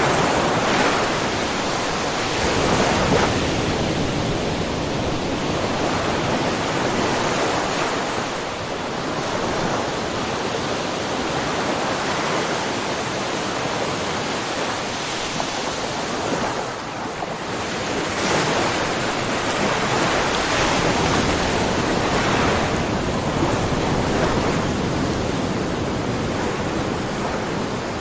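Ocean waves breaking and washing on a shore, a continuous rushing surf that swells and ebbs every few seconds.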